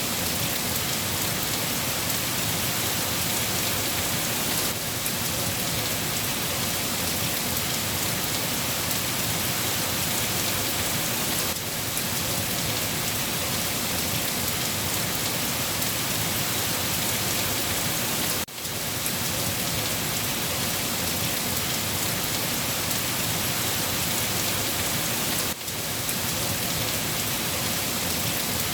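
Steady rain falling on a surface, a dense even hiss with no let-up, broken only by a brief dip in level about every seven seconds.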